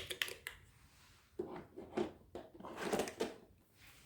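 Plastic clicks and knocks, a few separate taps spread over a few seconds, as the robot vacuum's 2-in-1 dust compartment with water tank is handled and slotted back into the robot.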